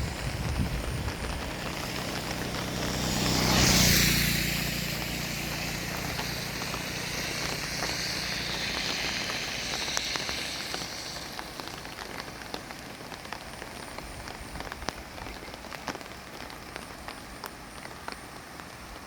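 Steady water noise, an even hiss with fine crackling patter, typical of rain or fast-flowing floodwater. There is wind buffeting on the microphone at first, and a louder swell of noise peaks about four seconds in and then fades. The hiss drops lower after about eleven seconds.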